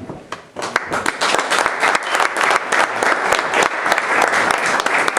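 Audience applauding: many hands clapping at once, starting about half a second in and tailing off near the end.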